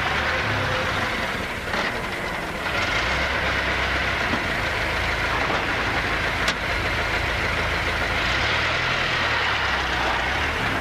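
Racing car engine running steadily as the car is driven along a road, with a single sharp click about six and a half seconds in.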